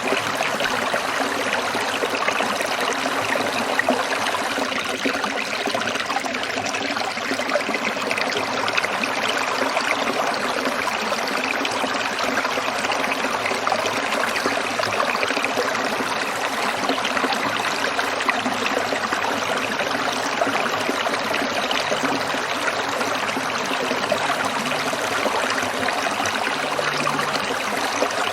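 Stream water trickling and splashing steadily over rocks.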